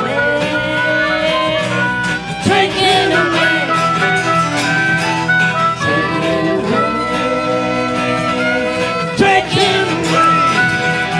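Acoustic string band music with fiddle and guitar playing the closing bars of a gospel song, with sustained notes.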